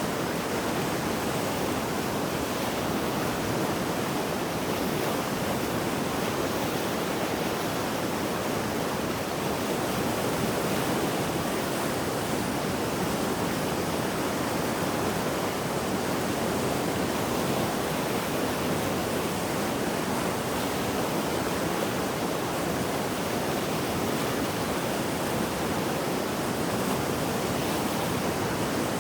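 Mountain river in flood after heavy rain, rushing water running as a steady, dense roar with no breaks.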